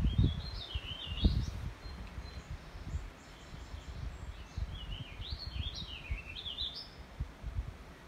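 A songbird sings two fast, warbling phrases about four seconds apart, over a low, gusty rumble of wind on the microphone that is strongest in the first second or so.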